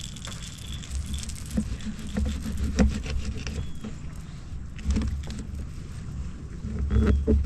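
Rain pattering, with scattered sharp ticks and knocks and uneven low rumbles of wind buffeting the microphone.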